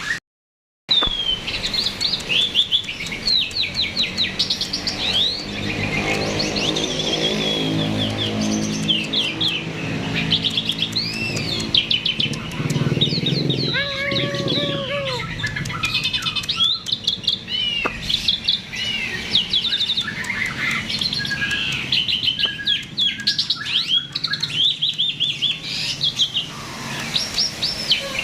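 Starling (jalak) in full, busy song: a fast, unbroken run of varied chirps, whistles and rising and falling trills. The sound cuts out for a moment just after the start, and a low drone runs underneath for a stretch in the middle.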